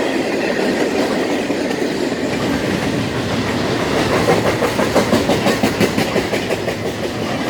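BNSF intermodal freight train cars rolling past, with a steady rumble and rattle and fast clicking of wheels over the rail joints that gets sharper about halfway through.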